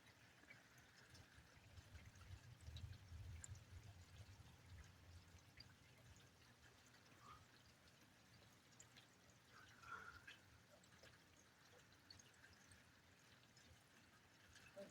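Near silence: faint scattered drips and ticks of rain, with a faint low rumble from about two to five seconds in.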